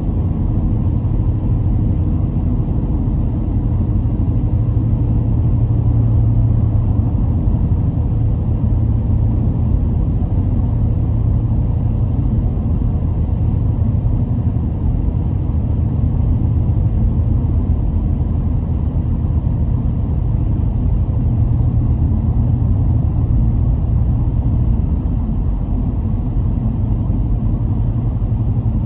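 A car driving at a steady pace: a steady low rumble of engine and tyres on the road, with no revving or breaks.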